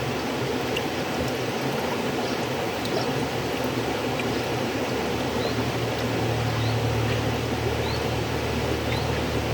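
River water flowing, a steady rushing that grows slightly deeper about halfway through, with brief high plinks now and then.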